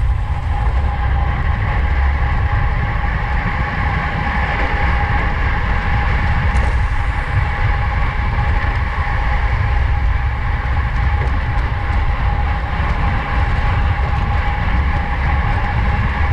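Wind rushing over the microphone of a camera riding on a racing bicycle at speed, a steady low buffeting rumble, with a steady high whine running under it.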